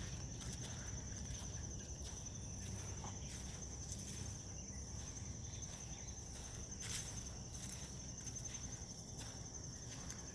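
Crickets trilling steadily at a high pitch, with scattered footsteps on the path and a sharper click about seven seconds in over a low rumble.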